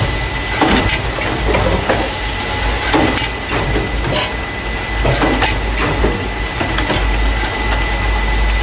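Carton case packer running in a factory, the machine that moves paper juice and milk cartons into plastic crates. It gives a steady low hum and a constant high whine, with mechanical clacks and knocks about once a second.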